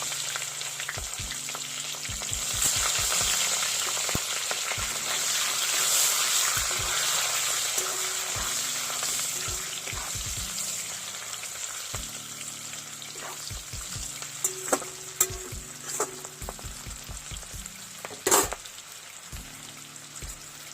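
Capsicum pieces sizzling in hot oil in a pan. The sizzle is loudest in the first half and settles lower later on. A few sharp knocks come in the second half, the loudest near the end.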